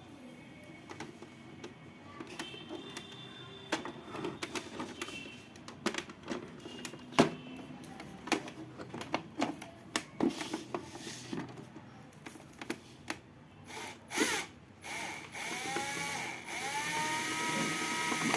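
Scattered clicks and knocks of handling, then an electric drill run in short bursts near the end, its motor whine rising as it spins up and the last run held steady for about two seconds. The drill is powered through the extension under test.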